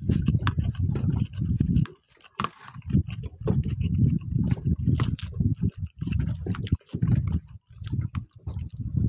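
Strong wind buffeting the microphone in uneven gusts, with water sloshing and scattered sharp knocks.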